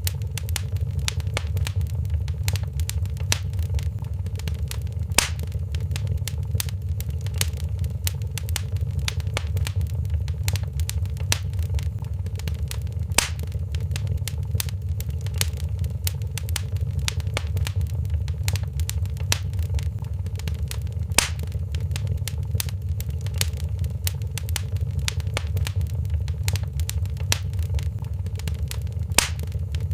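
Wood fire in a fireplace crackling: a steady low rumble with dense small crackles, and a louder pop about every eight seconds.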